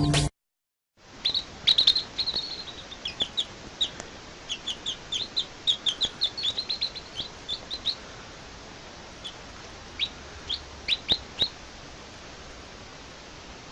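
Baby birds cheeping: many short, high, falling peeps in quick runs, thinning to a few scattered ones, over a steady hiss.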